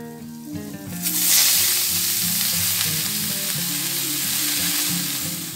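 Water spinach tipped from a colander into a hot pan of oil with sautéed shallots and garlic, sizzling loudly as it starts to stir-fry. The sizzle starts suddenly about a second in and holds steady.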